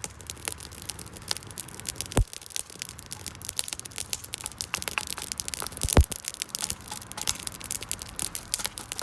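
Wood campfire crackling, with a steady patter of small snaps and two louder pops, about two seconds in and again about six seconds in.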